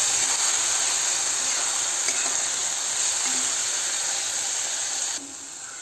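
Ground green masala paste with onion and tomato sizzling in hot oil in a non-stick kadhai, with a flat spatula scraping as it is stirred. The steady sizzle cuts off suddenly about five seconds in.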